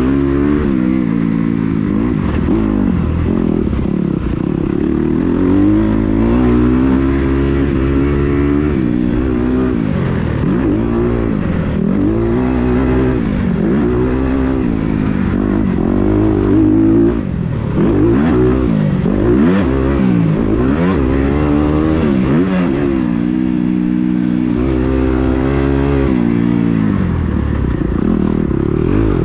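Kawasaki KX250 motocross bike ridden around a dirt track, its engine revving up and falling off over and over as the rider works the throttle and gears.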